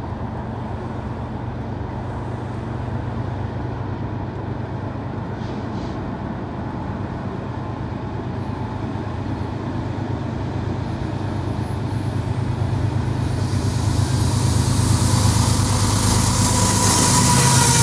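Diesel locomotive approaching: a steady low engine rumble grows steadily louder as it nears, with a rising rush of rail noise in the last few seconds.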